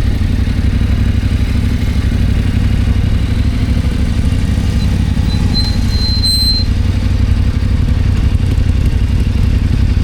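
Motorcycle engine running steadily while riding, a low even rumble with a faint rushing haze over it. A brief thin high whistle sounds about halfway through.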